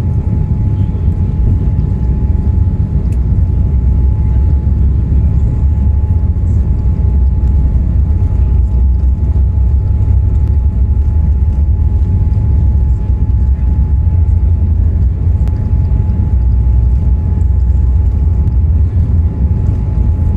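Boeing 787-8 engines and airflow heard from inside the economy cabin during takeoff: a loud, steady low rumble with a thin steady whine running through it.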